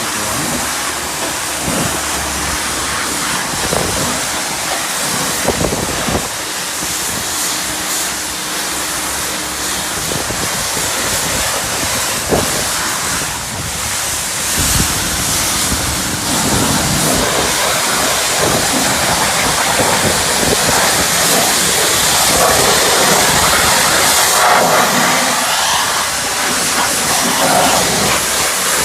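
Self-service car wash pressure wand spraying the car, a steady hiss that grows louder about halfway through.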